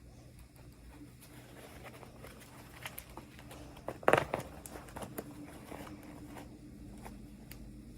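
Hands unboxing small plastic toys: scattered clicks, taps and crinkles of packaging, with a louder burst of handling noise about four seconds in, over a faint steady low hum.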